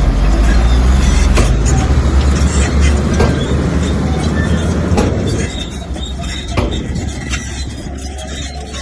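Komatsu bulldozer's diesel engine working hard under load, with scattered clanks and knocks from the tracks and rock. About five and a half seconds in, the deep engine drone eases off and the sound gets quieter.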